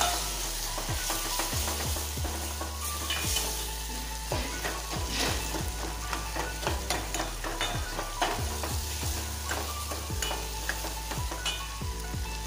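Onion-tomato masala frying in oil in a small steel pot, sizzling steadily. A steel spoon stirs it, with frequent scrapes and clinks against the pot's sides and bottom.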